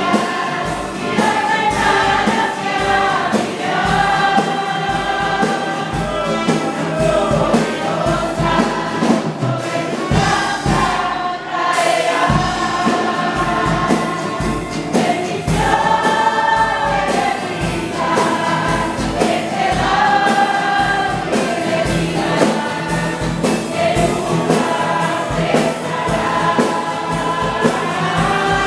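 A choir sings a gospel hymn over instrumental accompaniment with a steady bass beat.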